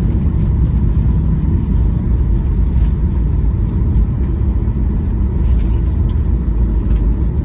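Steady low rumble inside the cabin of a Boeing 737-800 airliner: engine and rolling noise as the plane moves on the ground after landing, with a few faint rattles.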